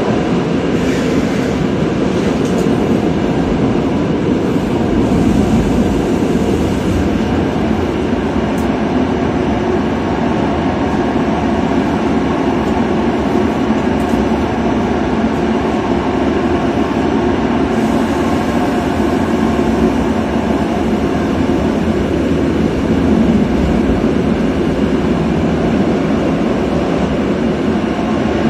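Steady running noise of a regional passenger train in motion, heard from inside its door vestibule.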